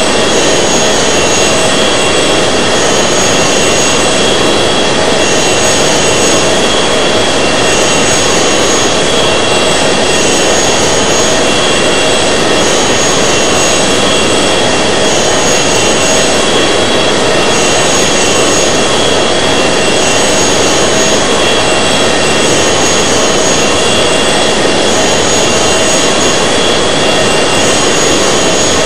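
Airbus A380's four jet engines heard from inside the cabin: a loud, steady wash of engine and airflow noise with a few thin steady whining tones over it, one high tone pulsing on and off every couple of seconds.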